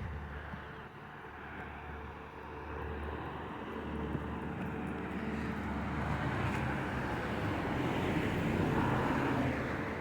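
Bus engine idling steadily, while a passing road vehicle's noise builds over several seconds and is loudest near the end.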